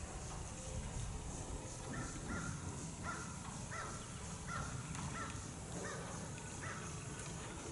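A bird calling repeatedly outdoors: a series of about ten short calls, many in pairs, starting about two seconds in. A steady low background noise runs beneath them.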